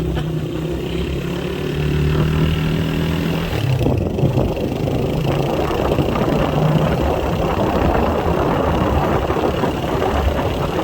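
Motorcycle engine running at steady speed while riding, its tone clear for the first few seconds, then largely covered by rushing wind and road noise from about four seconds in.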